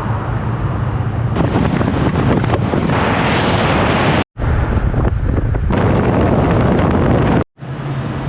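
Wind buffeting the microphone: a loud, steady, rumbling rush with no clear tone, broken by two short gaps of silence, about four and about seven and a half seconds in.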